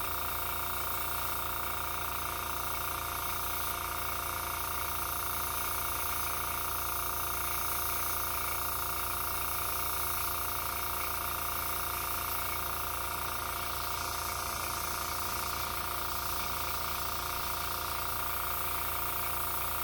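Small airbrush compressor from an Avanti combo kit running steadily, a constant hum of fixed tones under the hiss of air from the airbrush as it sprays paint.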